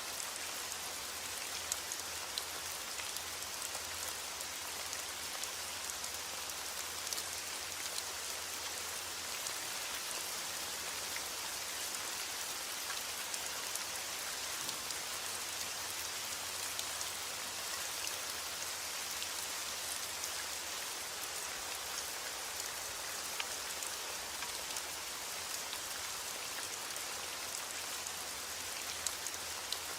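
Steady rain falling: a dense, even hiss with scattered individual drops ticking through it.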